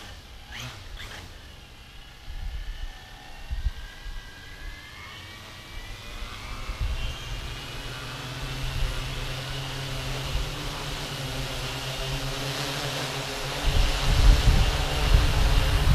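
Electric motors and propellers of a 3D-printed Inspire-style multirotor drone spooling up, their whine rising in pitch over several seconds. It then settles into a steady buzzing drone in flight, with a louder low rumble in the last couple of seconds.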